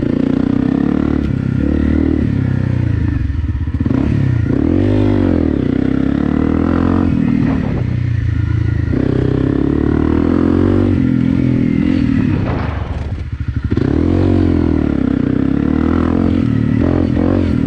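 Honda CRF250 Rally's single-cylinder four-stroke engine under way off-road, revving up and falling back again and again as the throttle opens and closes. It eases off briefly about two-thirds of the way through, then picks up again.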